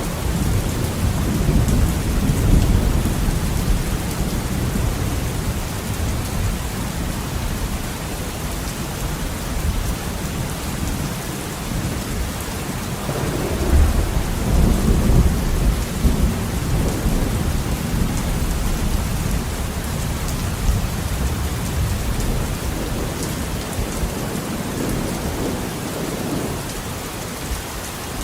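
Heavy rain falling steadily with rolling thunder. Low rumbles swell at the start and again about halfway through.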